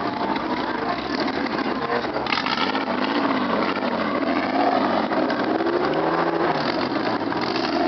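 Car engines running, their pitch rising and falling with revving, with a brief clatter about two seconds in.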